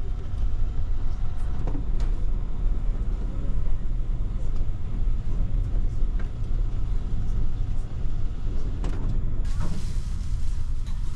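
Steady low rumble of the Kintetsu Hinotori electric express train running, heard inside the passenger cabin, with a few faint clicks. About nine seconds in, a brighter hiss joins the rumble.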